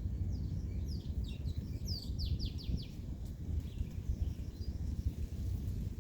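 A songbird singing a short phrase of quick, high, downward-sweeping notes that ends in a fast run of about five, then falls quiet, over a steady low rumble.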